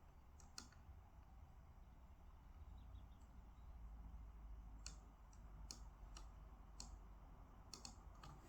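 Scattered light clicks of computer work, about nine in all and most of them in the second half, over a faint low hum.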